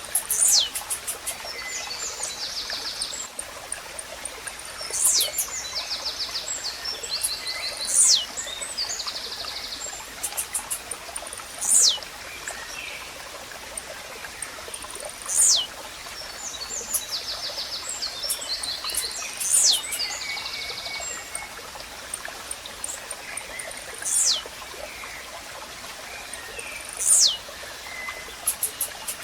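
Blue-black grassquit (tizil) song mixed with other birds' buzzy phrases and clicking calls over steady running stream water. Short high notes falling steeply in pitch repeat every three to four seconds.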